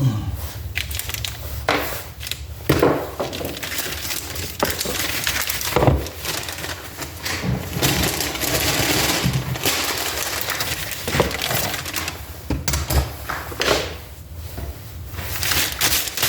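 Metal parts and tools being handled on a workbench: a run of sharp clicks and knocks, with a stretch of scraping or rubbing a little past the middle.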